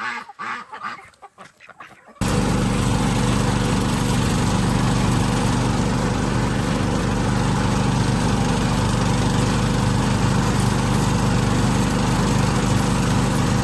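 A small engine running steadily at an even speed. It starts abruptly about two seconds in, after a couple of seconds of faint poultry sounds.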